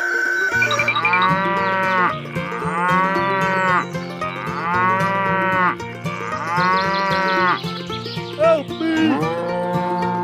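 Cattle mooing: four long, drawn-out moos one after another, each about a second and a half, then several shorter moos near the end.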